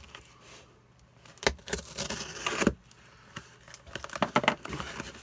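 A package being unpacked by hand: rustling of packing material with scattered sharp clicks and clatters, the busiest stretch in the second half.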